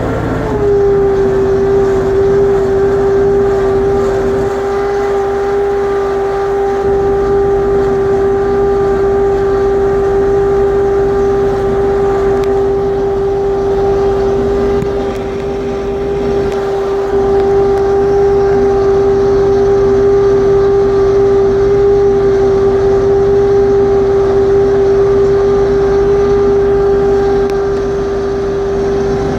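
LS XR3135C compact tractor's diesel engine running at a steady speed, with a loud, steady whine on top that dips slightly in pitch about half a second in and then holds. The whine is the hydraulic noise the owner complains of, which two dealer visits have not cured.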